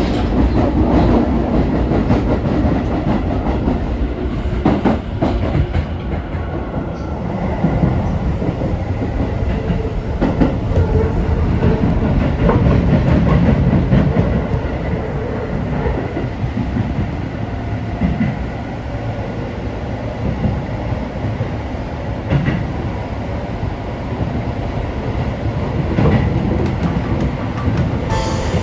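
Keio Sagamihara Line electric train running, heard from inside the passenger car: a steady rumble of wheels on rail with irregular clacks.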